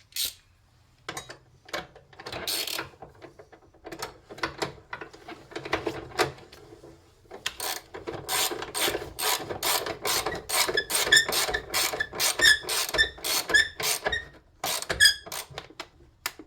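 Ratchet wrench clicking as it tightens a battery terminal clamp bolt. The clicks come in a few scattered strokes at first, then in a quick steady run through most of the second half.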